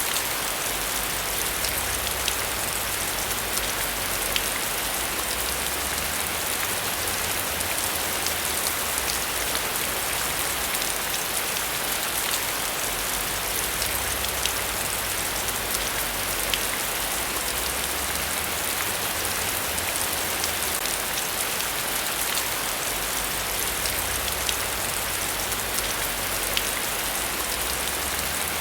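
Steady heavy rain falling, an even hiss dotted with scattered sharp ticks of single drops.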